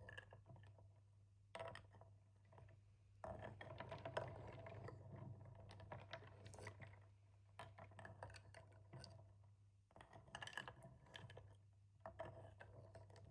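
Quick, irregular tapping and scratching clicks on a small wooden plate, coming in clusters with short pauses, over a steady low hum.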